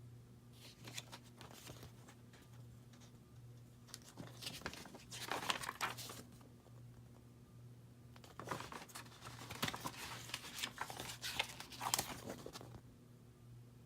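Packing material rustling and crinkling as it is handled and pulled apart during unboxing. It comes in two spells, a short one about five seconds in and a longer one from about eight and a half to twelve and a half seconds.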